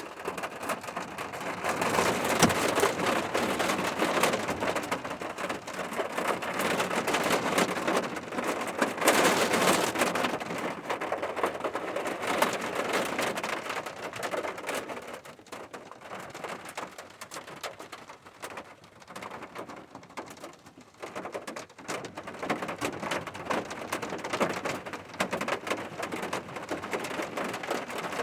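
Steady rain falling, a dense patter of drops on a surface. It eases about halfway through and picks up again near the end.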